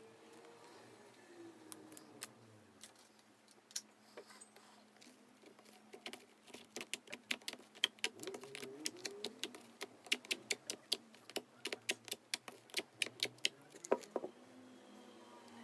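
Clear slime being squeezed and poked by hand, giving a long run of sharp clicks and pops. They come sparsely at first, then quickly and densely from about six seconds in until shortly before the end.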